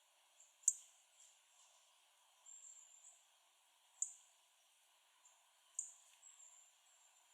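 A small bird giving thin, high-pitched calls, three sharp notes a few seconds apart, each followed by softer trailing notes, over a faint steady hiss.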